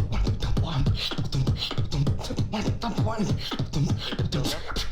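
Human beatboxing: a fast run of sharp vocal clicks and snares over a deep bass that slides up and down in pitch.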